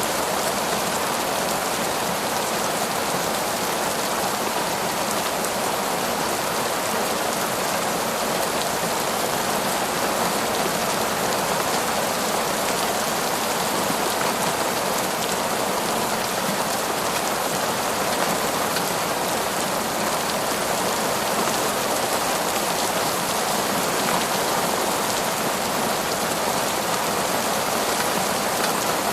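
Heavy torrential rain falling steadily in a forest, a dense even hiss of rain with no thunder or breaks.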